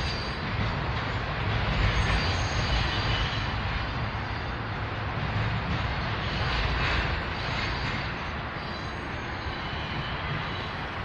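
Double-stack container cars of a freight train rolling past: a steady low rumble of steel wheels on the rails with a rushing noise over it.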